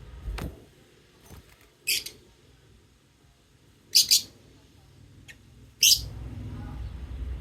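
Lovebirds giving short, shrill chirps: three loud ones about two seconds apart, the middle one doubled, with a few fainter clicks between. A low rumble comes in near the end.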